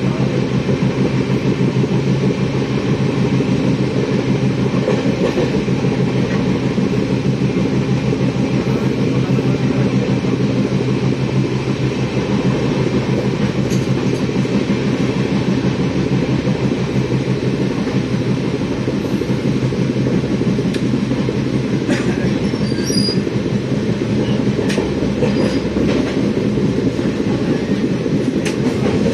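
Train rolling along the track, heard from inside a coach: a steady rumble of wheels on rails, with a few sharp clicks in the last third.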